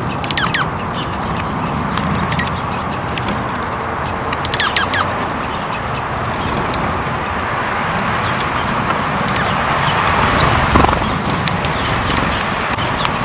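Outdoor bird sounds: a steady chatter of calls with short high chirps and scattered sharp clicks and taps.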